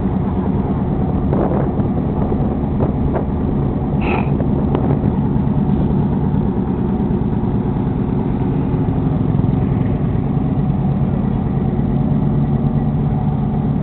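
Crew boat's engines running with a steady, even drone, with a few faint knocks and a brief higher squeak about four seconds in.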